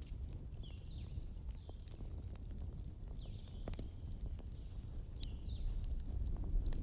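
Wood fire burning in a fireplace: a steady low rumble with scattered sharp crackling pops, and several short high whistling tones, the longest about three seconds in.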